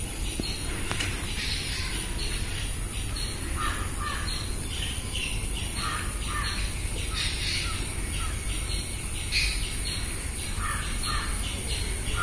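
Birds calling: short calls, often in pairs, repeating every second or so over a low steady rumble.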